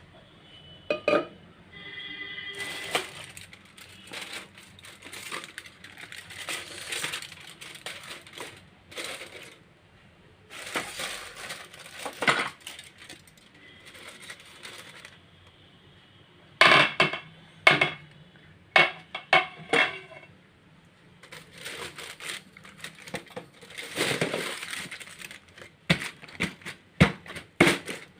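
Metal utensil scraping and clinking against a metal cooking pot, with several sharp knocks that ring on briefly.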